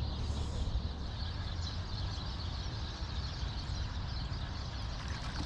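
Steady rush of flowing creek water, with a low rumble underneath.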